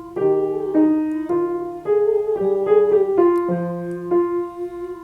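Piano playing a vocal-exercise accompaniment, a new chord struck about every half second over a held note, moving in small steps as the key changes.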